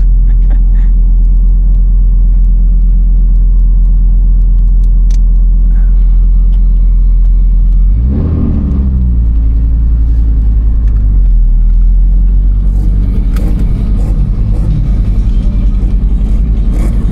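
Heavily modified Fiat Marea's 2.4 five-cylinder engine running, heard from inside the cabin: steady for about eight seconds, then its pitch shifts, and from about twelve seconds on it runs rougher and more uneven.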